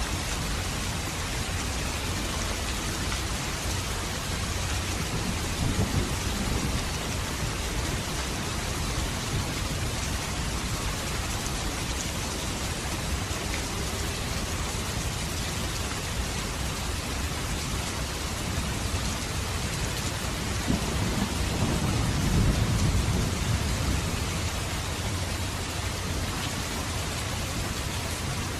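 Steady, heavy rain falling, with two low rumbles of thunder: a short one about six seconds in and a longer, rolling one later on.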